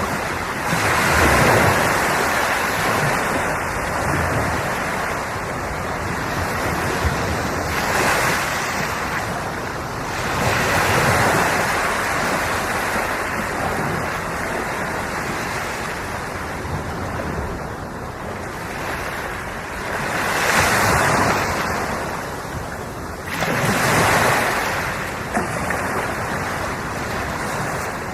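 Sea waves washing onto the shore: a steady hiss of surf that swells into a louder breaking surge every few seconds, about five times.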